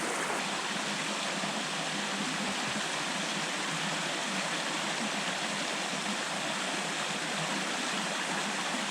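Water rushing steadily over small waterfalls in a stream, an even unbroken rush.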